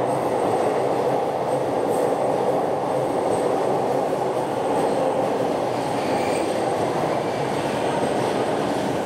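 Keikyu 2100 series electric train arriving at a station platform: the steady rumble of wheels and running gear as the cars roll past, with a brief faint squeal about six seconds in.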